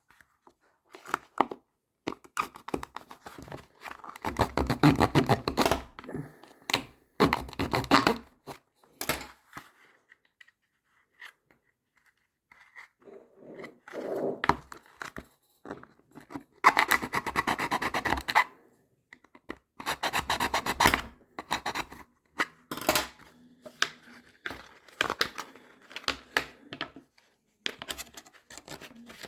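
Hand tools scraping and cutting at a leather case to widen a hole, in repeated bursts of rapid rasping strokes with short pauses and a quieter stretch partway through.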